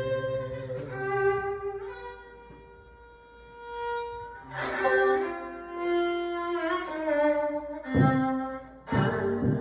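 Korean traditional ensemble music: a slow melody of long held notes that slide between pitches, on bowed-string and wind instruments, with two drum strokes near the end.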